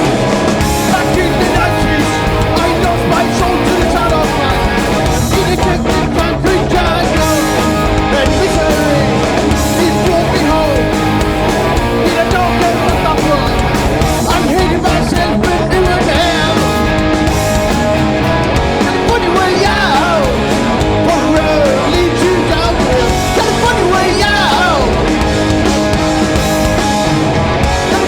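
Live punk rock band playing loudly: distorted guitars, bass and drums, with sung vocals.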